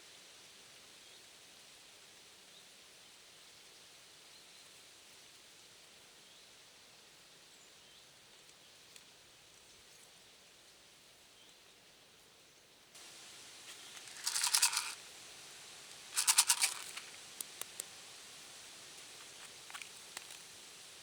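Faint outdoor background hiss, then two short rasping scrapes about two seconds apart, each lasting under a second, followed by a few light ticks.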